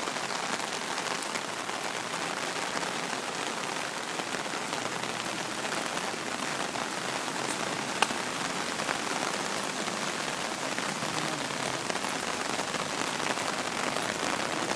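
Heavy typhoon rain falling steadily onto a flooded street and a large puddle, a dense hiss of countless small drops, with one sharp click a little over halfway through.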